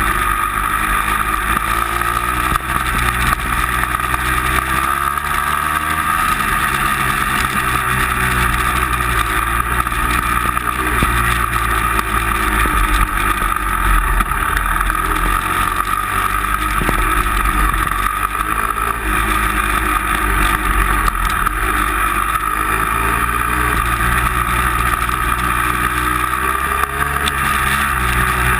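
A motor vehicle's engine running loud and continuous, its revs rising and falling again and again as it drives under changing load.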